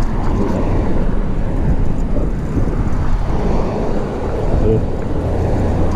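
Steady rumble of wind and road noise on a phone's microphone while riding a fixed-gear bike through traffic.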